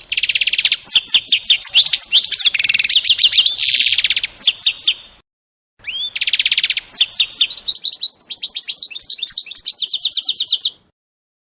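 A small songbird singing two long phrases of rapid trills and whistles, with a short break about five seconds in. It stops shortly before the end.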